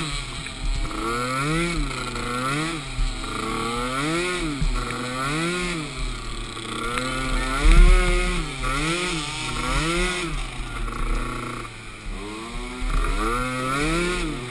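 Small pee wee ATV engine revving up and falling back again and again, about once a second, as the throttle is worked on and off. A low thump about eight seconds in is the loudest moment.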